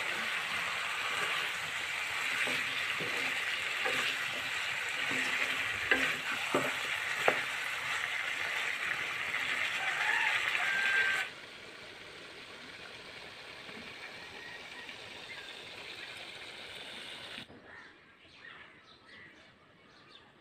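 Cauliflower and tomato pieces sizzling in hot oil in a wok, stirred with a wooden spoon that knocks against the pan a few times. The sizzle cuts off abruptly about eleven seconds in, leaving a fainter hiss and then near quiet toward the end.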